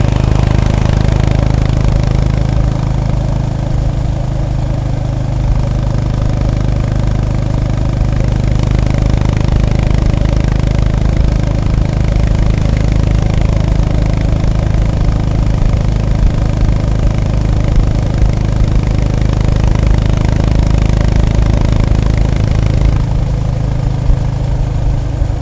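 Honda GB350S (CB350RS) single-cylinder engine running at low, steady revs, a low exhaust note with no other sound over it. Near the end the higher part of the sound drops away as the engine eases off.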